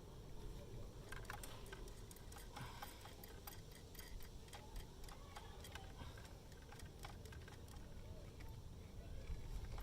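Faint, irregular light clicks and taps of metal tools and parts being handled during scooter drive-belt work.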